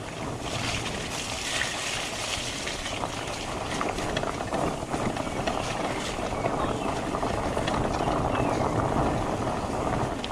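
Fat bike rolling fast down a muddy dirt trail: a steady rush of wind and tyre noise with scattered small knocks and rattles, slowly getting louder.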